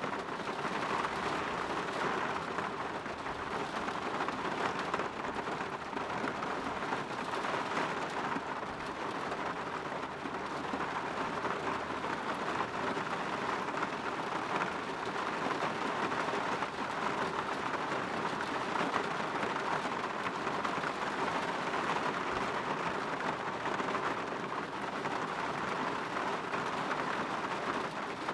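Steady rain falling and pattering on a window pane, an even hiss with fine crackle.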